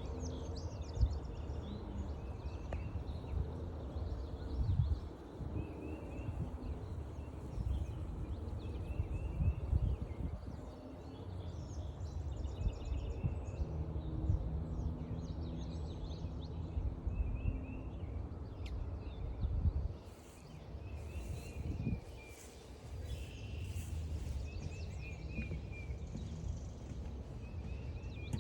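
Footsteps on a forest trail with irregular low thuds, under several songbirds singing short repeated phrases and a thin high note held for about ten seconds near the start.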